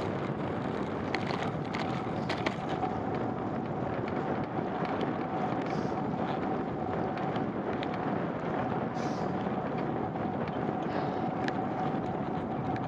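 Steady wind noise on the microphone and rolling noise from a bicycle being ridden on a wet road, with a faint steady whine that comes in a few seconds in and a couple of light clicks near the start.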